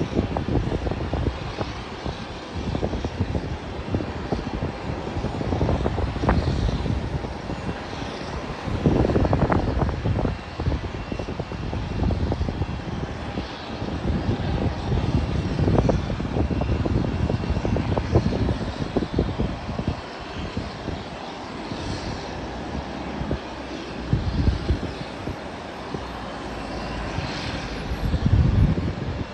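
Airliner engines running, with wind gusting on the microphone in irregular low rumbling surges.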